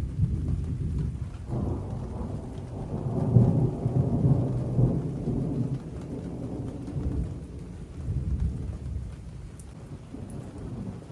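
Thunder from a strong thunderstorm rumbling: a deep roll that swells about a second and a half in, is loudest a few seconds later, then slowly dies away, with rain falling throughout.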